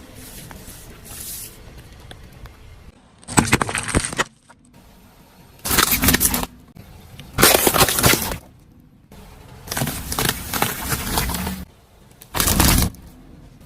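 Brittle objects cracking and breaking as they are crushed, in five separate bursts, the fourth the longest.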